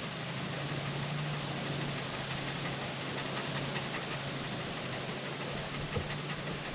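Steady low hum over an even hiss, with a single faint knock about six seconds in.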